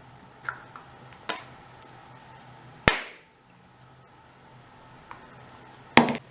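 Sharp knocks: two faint clicks, then a loud knock about three seconds in with a brief echoing tail, and another loud knock near the end.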